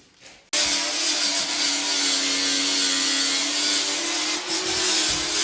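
Angle grinder starting up about half a second in, then running steadily as it grinds down dried gypsum plaster on a ceiling, a constant motor hum under a harsh grinding hiss.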